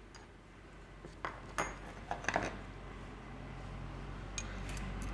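Metal tools and engine parts clinking against each other during motorcycle engine reassembly: a quick cluster of sharp clinks about a second in, two more near the end. A low steady hum grows in the background from about halfway.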